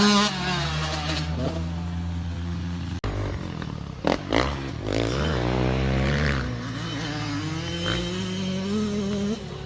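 Motorcycle engine running and revving, its pitch climbing and dropping repeatedly as it accelerates and shifts, with an abrupt change in the sound about three seconds in.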